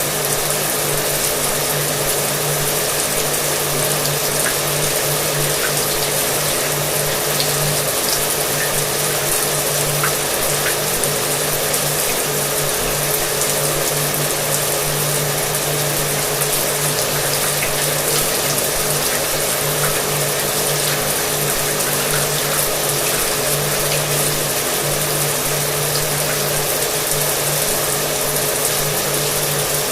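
Shower water spraying steadily, mixed with an electric hair dryer blowing underneath it, its motor hum holding one steady pitch.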